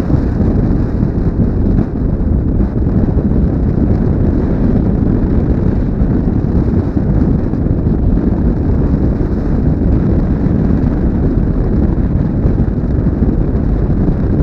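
Wind buffeting a helmet-mounted GoPro's microphone on a moving motorcycle: a steady, loud rush of wind noise that covers any engine sound.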